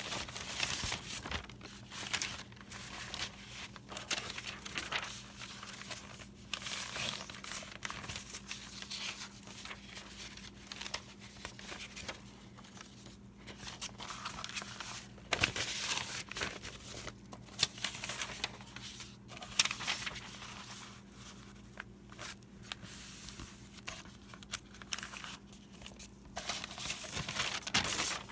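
Sheets of paper rustling and crinkling as they are handled, in irregular bursts, over a faint steady low hum.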